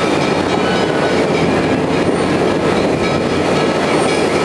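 Passenger train car rolling over the rails: a steady, loud rumble of wheels and track noise, with faint wheel squeal.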